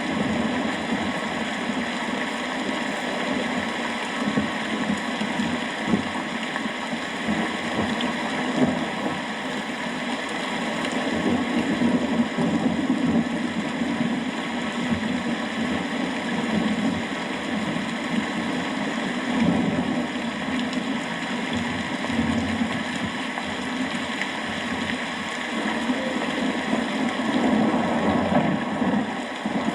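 Steady rain falling, a continuous even hiss with small flickers, without a clear thunder clap.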